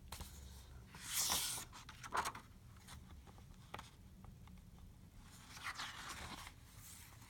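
Paper rustling as a picture book's page is handled and turned: two soft rustles about four seconds apart, the first the louder.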